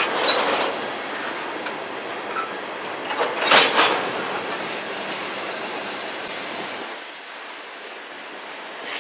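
Freight cars of a passing train rolling by: a steady rumble and rattle of steel wheels on rail. There is a loud clatter of wheels just after the start and again about three and a half seconds in, and it grows quieter near the end.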